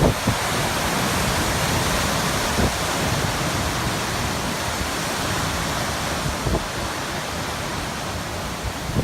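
Typhoon wind as a steady, loud rushing noise, with gusts now and then buffeting the microphone in brief low thumps.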